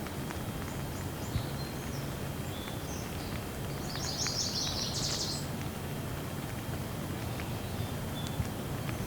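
Steady rain falling, with birds chirping over it and a quick run of twittering about four to five seconds in.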